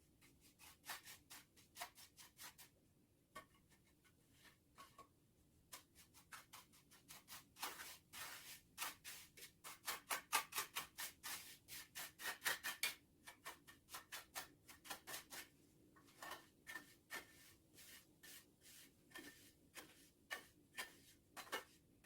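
Repeated short scraping strokes, a few a second, of a trowel working cement mortar. The strokes come faster and louder in the middle, then thin out again.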